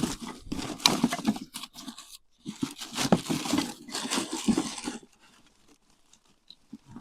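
Crinkling and tearing of a crinkly material being handled, in two stretches of about two seconds each, then quiet near the end.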